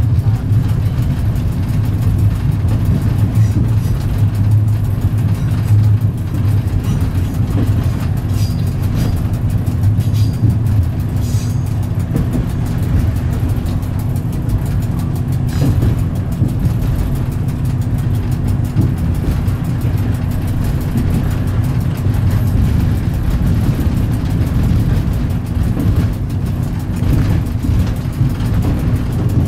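Diesel train running steadily, heard from inside the driver's cab: a continuous low engine drone with a steady hum over wheel and rail noise.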